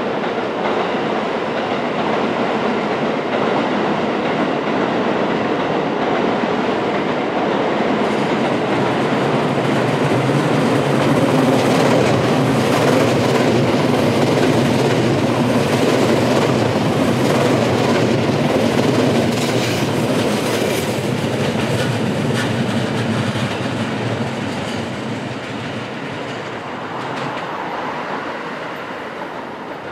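A Kuroshio limited express electric train passing close by, its wheels clicking over the rail joints. The sound builds, is loudest and most clattery through the middle, then fades as the train goes away.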